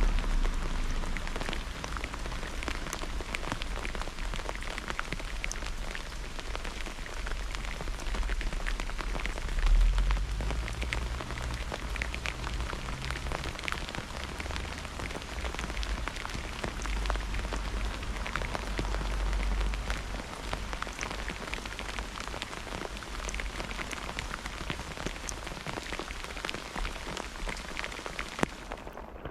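Steady heavy rain during a thunderstorm, with many individual drops tapping close by. A low rumble swells at the start and again about ten seconds in.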